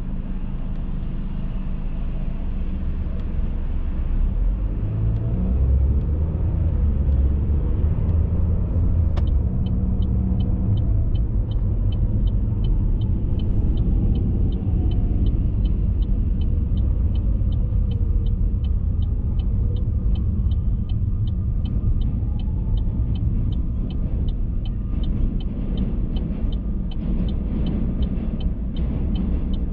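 Moving car heard from inside: a steady low drone of road and engine noise. About nine seconds in, a regular ticking sets in, about two ticks a second, and keeps going.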